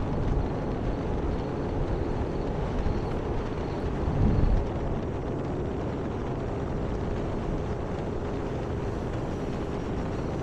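Electric motor and propeller of an E-Flite Air Tractor 1.5 m RC plane in flight, a steady hum, with wind buffeting the microphone about four seconds in.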